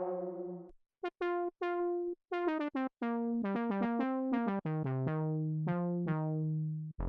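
Polymax soft-synth pluck preset playing a melodic run of short notes, each bright at the attack and quickly mellowing as it decays. The notes come sparsely at first and then quicker from about three seconds in, some overlapping. A held chord from the previous patch fades out at the very start.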